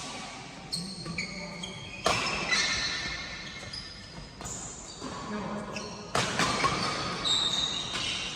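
A badminton rally in an echoing indoor hall. Sharp racket strikes on the shuttlecock come about four times, two of them loud, mixed with short high squeaks of court shoes and background voices.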